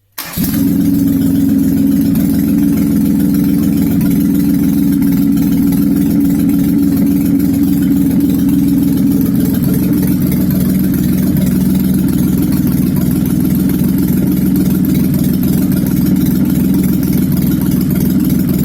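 Daewoo Matiz car engine, fitted with a carburettor on a homemade mini tractor, running steadily at an even speed. It comes in abruptly right at the start.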